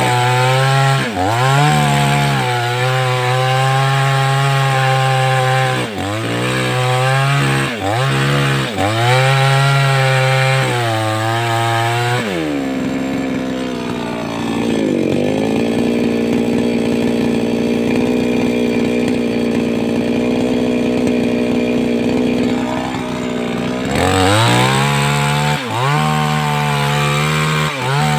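588X two-stroke chainsaw working through large timber. Its engine pitch dips and rises every second or two, then holds a steadier, duller note for about ten seconds from around the middle, before dipping and rising again near the end.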